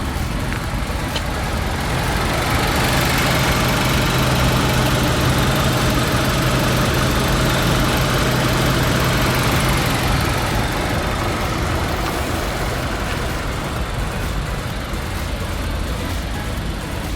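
A car engine running steadily. It grows louder about two seconds in and eases off again after about ten seconds.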